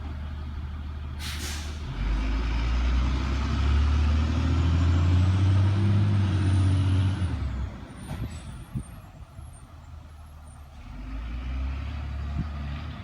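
Garbage truck releasing its air brakes with a short hiss about a second in, then its engine pulling away, revving up with a rising whine for several seconds before easing off. The engine swells again briefly near the end.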